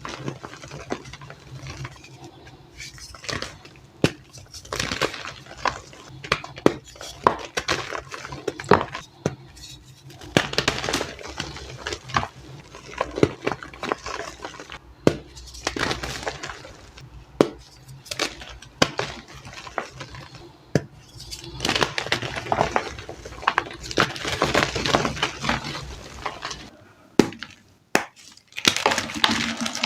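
Blocks of reformed gym chalk being crushed, with a steady run of sharp cracks and gritty crunching. There is a brief pause near the end before the crunching starts again.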